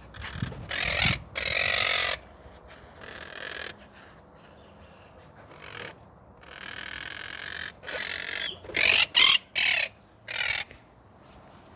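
Quaker parrots (monk parakeets) squawking in harsh, noisy bursts. Several calls come in the first two seconds, then softer ones, then a loud cluster of squawks about nine to ten seconds in.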